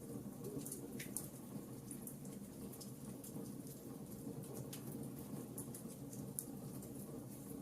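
Wood fire crackling in a fireplace: a steady low rumble of flames with many small, irregular pops and snaps.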